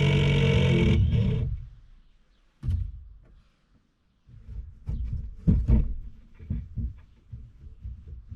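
A handheld power tool's motor runs steadily and cuts off about a second in. Several separate knocks and thumps follow.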